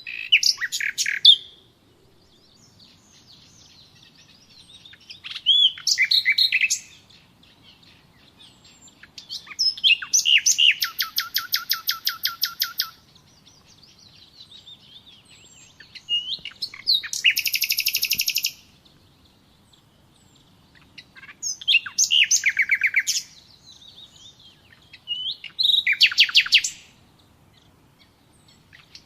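A songbird singing a short, fast trilled phrase again and again, about every four seconds, six times in all.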